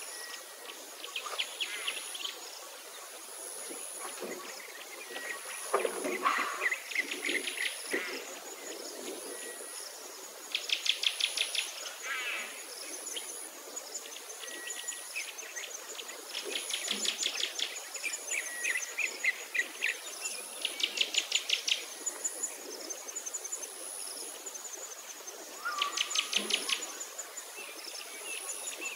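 Songbirds singing: several fast trills about a second long each, over a high thin note repeating about every second and a half.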